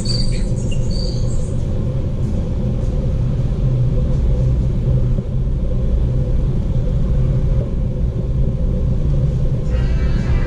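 Steady low rumble, with a few short high squeaks in the first second or so.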